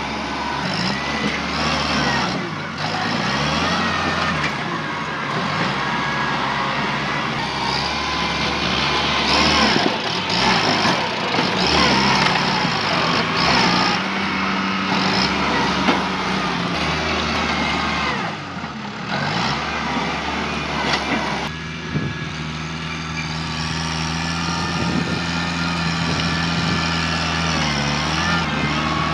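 Tractor engine working hard under changing load, its pitch dropping and climbing again several times. It gets louder and rougher for a stretch in the middle.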